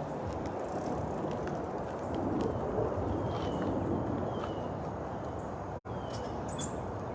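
Steady rushing wind buffeting the microphone, swelling a little in the middle, with a few faint bird chirps over it.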